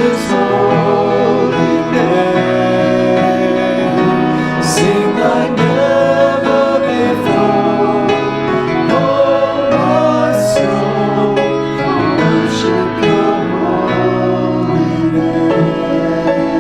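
Church music: several voices singing with instrumental accompaniment, in long held notes.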